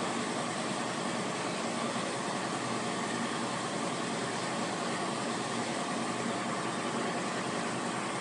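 CNC plasma torch cutting steel, a steady, even hiss of the arc and cutting air.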